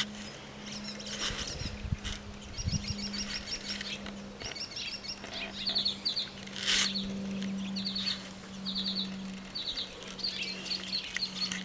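Small songbird calling in quick runs of high, rapid chips, the runs repeating every second or so, with a faint steady low hum underneath.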